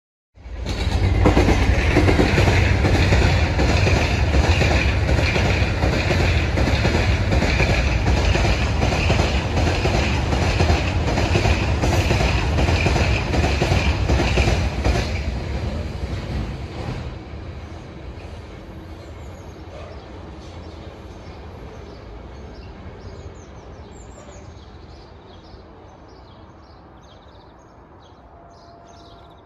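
Loaded stone train hauled by a Class 66 diesel locomotive passing, with a steady rhythmic clatter of wagon wheels over the rail joints. The sound fades away after about seventeen seconds as the train draws off into the distance.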